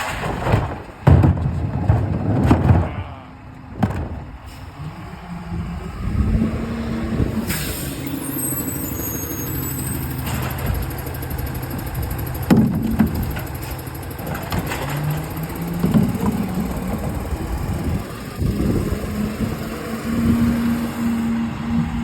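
Garbage truck working: its diesel engine runs and revs up in steps, with a few loud bangs in the first three seconds and a short hiss of air about seven seconds in.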